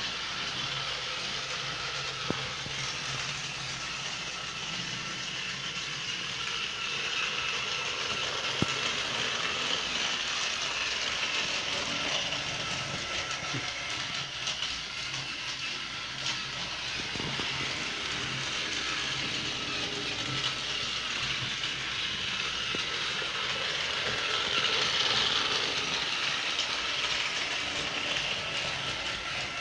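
TOMY Thomas toy engine's small battery-powered electric motor and gears running steadily as it hauls its cars along the track, with a couple of sharp clicks.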